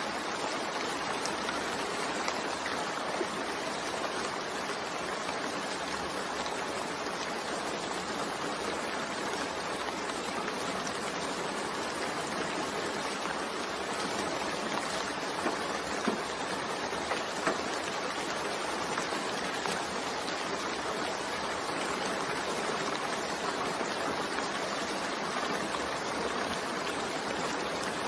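Steady rain falling: an even hiss of water, with a few sharper drop hits about halfway through.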